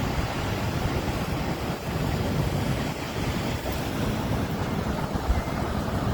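Wind gusting against the microphone: a steady, rumbling roar heaviest in the low end that rises and falls, with no distinct impacts.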